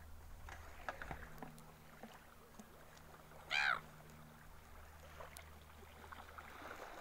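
A single short bird call about three and a half seconds in, over a faint, steady low hum.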